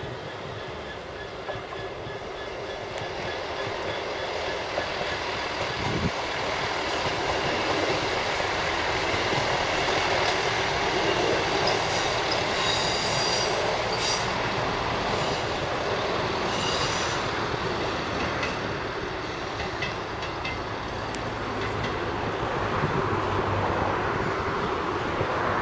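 A Class 158 Sprinter diesel multiple unit passing on the rails: running noise builds as it nears, then eases as it draws away. Its wheels give several short, high-pitched squeals as it goes by. A low hum comes up near the end.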